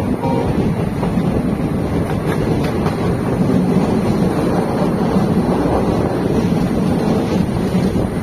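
Steady rumble of a moving passenger train heard from on board an ICF coach, with wind buffeting the microphone.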